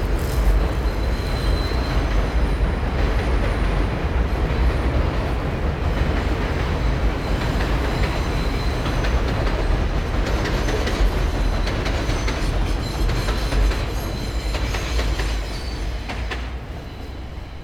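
A train running past on the rails: a loud, steady rumble with faint high wheel squeal and a run of clicking from the wheels over the rail joints in the second half, fading away near the end.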